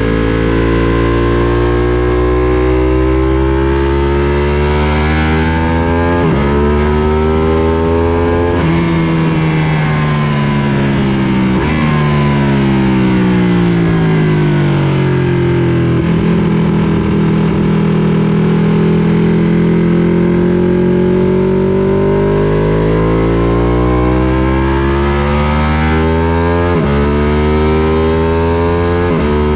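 Sport motorcycle engine heard from on board at track speed. Its pitch falls and rises with the throttle, jumps abruptly at several gear changes, and climbs steadily through the second half as the bike accelerates up through the gears.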